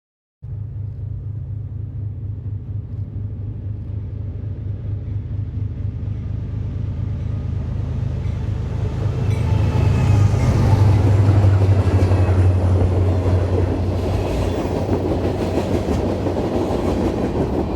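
Diesel freight locomotive approaching and passing, its low engine drone building to its loudest about ten seconds in. After that, the rumble and rattle of wheels on rail from the train's cars grows.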